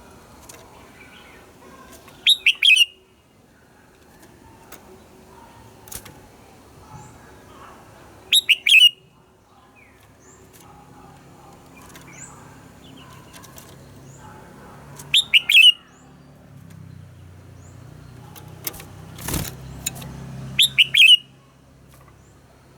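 Red-whiskered bulbul singing four short, loud phrases of a few quick, high notes, about six seconds apart, over faint chirps from other birds. A single sharp click is heard a couple of seconds before the last phrase.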